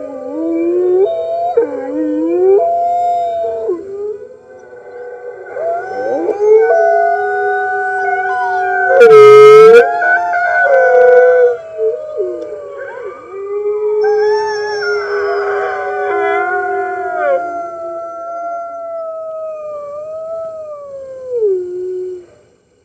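A chorus of wolves howling, with several long howls overlapping at different pitches, each sliding up and down. About nine seconds in, one howl close to the microphone is loud enough to distort. The chorus cuts off suddenly near the end.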